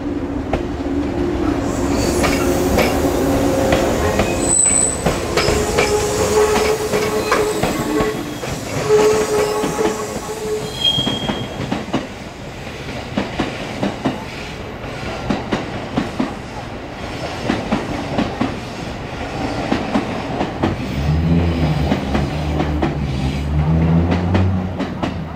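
Jōshin Electric Railway 700 series electric train (former JR East 107 series) moving slowly while shunting, its wheels clattering over rail joints and points. A few brief high wheel squeals come in the first half.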